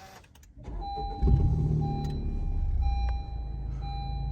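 A 2018 Honda Civic Type R's turbocharged 2.0-litre four-cylinder engine starts about a second in and settles into a steady idle. A short dashboard warning chime repeats about once a second over it.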